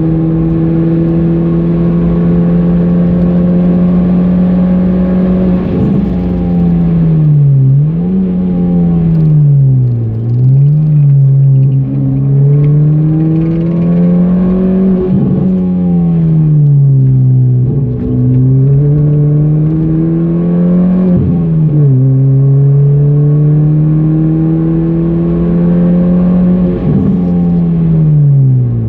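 A car's engine heard from inside the cabin while the car is driven hard round a circuit. The engine note climbs under acceleration and falls away under braking several times, with short breaks in the note at gear changes.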